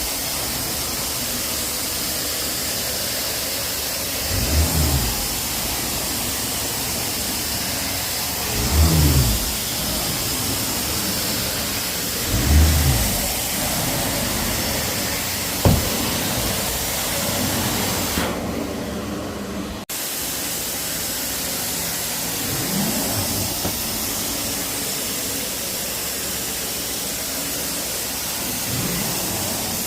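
Carpet extraction cleaner running with a steady hiss of suction, with a low swell about every four seconds as the cleaning wand is stroked across the carpet. A single sharp click about halfway through.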